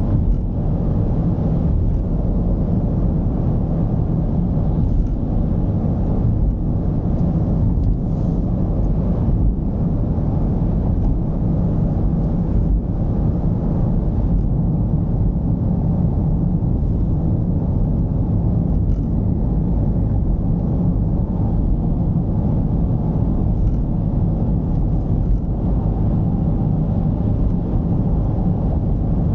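Mercedes-Benz V220's diesel engine and road noise while driving, a steady low drone.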